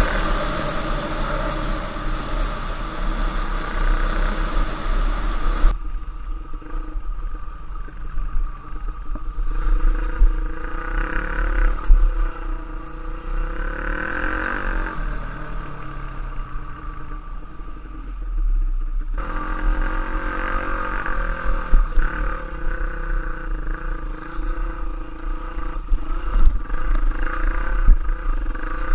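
Dirt bike engine running on a trail ride, its pitch rising and falling as the throttle is worked, over a heavy low rumble on the microphone. The sound changes abruptly about six seconds in and again near two-thirds of the way through.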